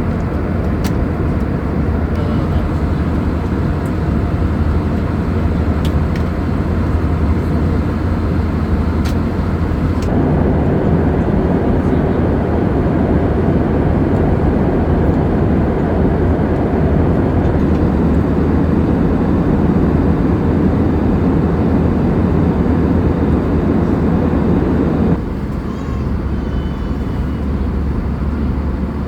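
Steady roar of an Airbus A320-200's cabin in flight. It gets louder and deeper abruptly about ten seconds in, then drops back just as suddenly near the end.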